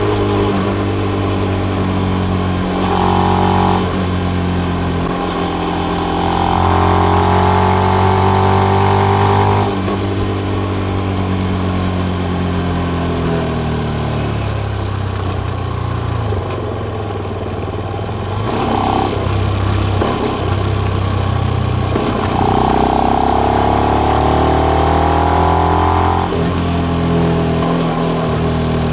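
Benelli BN125's single-cylinder four-stroke engine through its original exhaust with the dB killer in, pulling up in pitch and dropping back at each change twice, then winding down for several seconds, then pulling up again and dropping about three seconds before the end.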